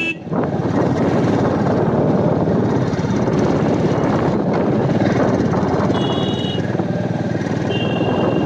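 Wind rushing over the microphone mixed with the running engine of a Royal Enfield Meteor 350, a single-cylinder motorcycle, riding along. A short horn beeps twice near the end.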